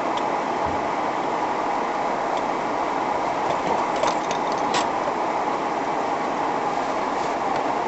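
Automatic car wash running with a steady, even machine noise, with a few light clicks about four and five seconds in.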